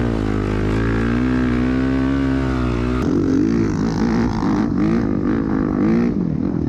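Off-road vehicle engine running and revving, its pitch slowly rising and falling. About three seconds in, the sound changes abruptly to another engine, revved up and down in quick swells.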